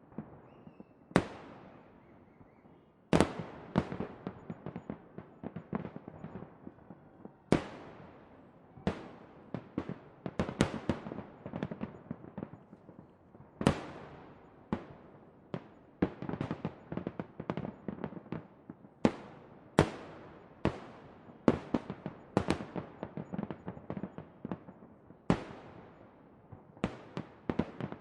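Fireworks display: loud bangs every one to three seconds, each followed by a rolling echo, with many smaller pops and crackles in between.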